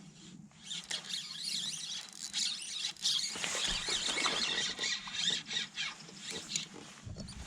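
Fishing reel's drag squealing on and off as a hooked bass pulls line.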